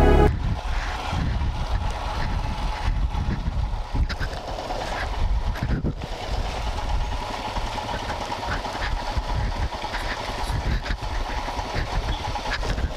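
Royal Enfield Himalayan single-cylinder motorcycle running steadily while being ridden, with rough road and wind noise.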